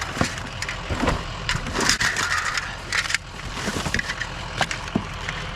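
Scrap and junk being handled and pulled from a pile: scattered knocks, clatter and rustling, over a steady low rumble.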